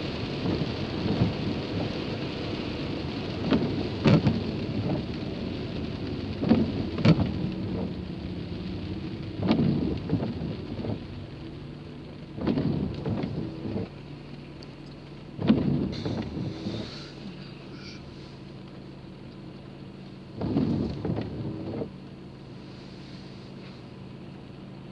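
Rain and road noise heard from a moving car, with the engine's steady hum underneath and a louder low rumble every few seconds; the rain noise eases a little about halfway through.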